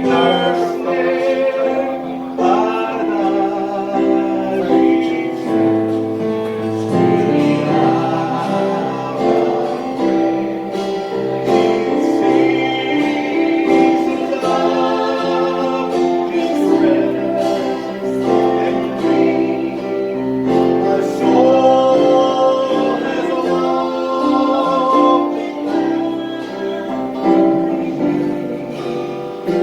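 Gospel song: singing voices over sustained instrumental accompaniment.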